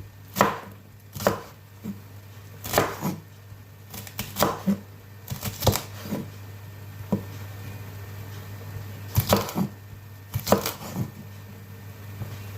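Knife chopping okra pods, sharp strokes against the cutting surface coming irregularly, singly or in quick pairs, with a pause of a couple of seconds midway.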